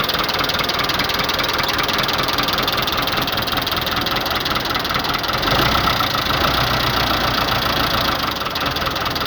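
Fiat 640 tractor's diesel engine running just after a cold start, a steady idle with a knocking clatter. About five and a half seconds in it runs louder and deeper for a few seconds, then settles back.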